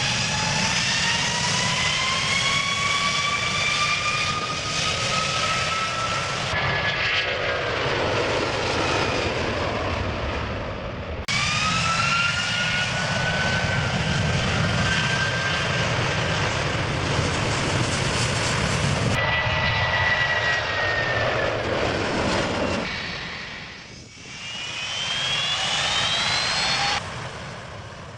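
Airplane jet engines at close range, running at takeoff power: a loud rumble with high whines that climb in pitch as the engines spool up. The sound comes as several separate clips joined by abrupt cuts, and in one of them the whine falls instead.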